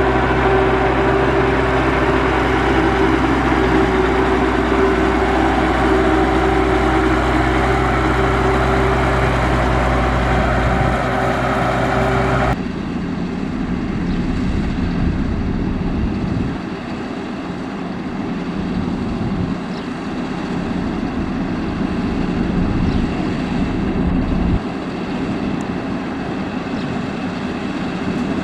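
Diesel engines of heavy road-construction machinery running steadily. About twelve seconds in, the sound cuts abruptly to a different, somewhat quieter machine sound with less low rumble.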